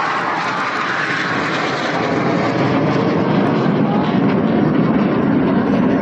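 Jet aircraft flying past, a loud steady rush of engine noise that grows heavier and lower in pitch toward the end.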